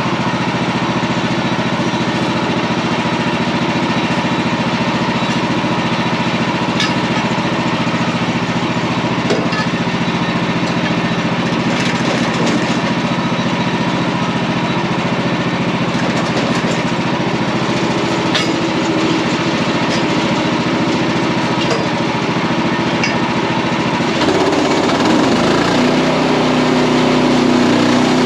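Portable bandsaw sawmill's small engine running steadily under load while the band blade saws through a wide elm log. Near the end the engine note shifts and wavers as the load changes.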